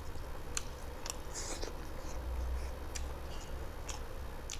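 Close-miked chewing of rice and chicken curry eaten by hand, with a few sharp wet mouth clicks and smacks.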